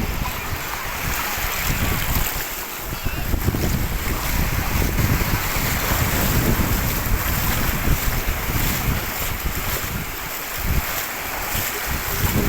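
Wind buffeting the microphone: a continuous gusty low rumble under a steady rushing hiss.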